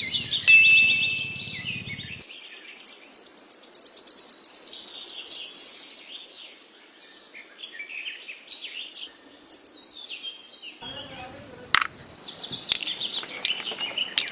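Many small birds chirping and twittering in quick, high calls. A low hum runs under them for about the first two seconds, and a few sharp clicks come near the end.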